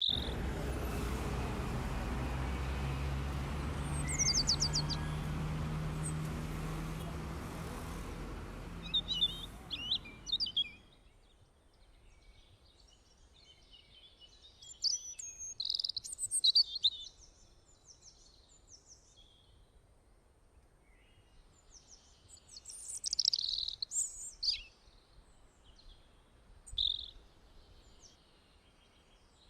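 Small birds chirping and singing in short scattered phrases. For about the first ten seconds a steady low hum and noise run under them, then stop suddenly.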